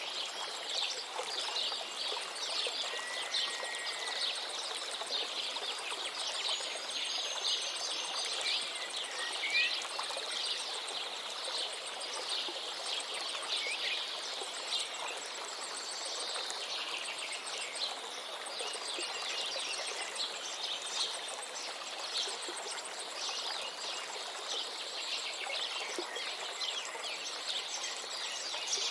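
A river running steadily, with many small birds chirping and twittering over it throughout.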